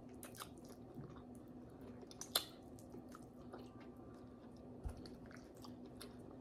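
Faint eating sounds: a person chewing soft boiled pork hock and sucking her fingers, with scattered small wet clicks and smacks. A sharper click comes about two and a half seconds in, over a faint steady hum.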